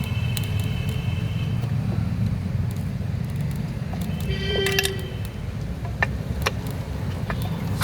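Scattered light metallic clicks and taps of hand tools on motorcycle engine parts, with two short ringing metal tones, over a steady low rumble.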